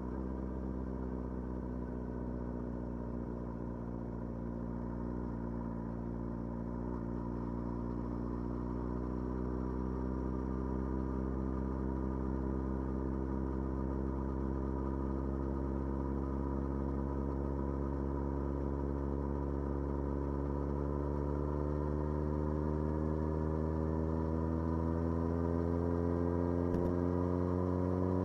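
Motorcycle engine running steadily under light load, its pitch climbing slowly and evenly as the bike gradually gains speed.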